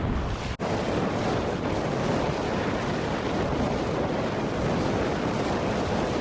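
Wind buffeting the microphone out on open water: a steady, even rushing roar, after a brief dropout about half a second in.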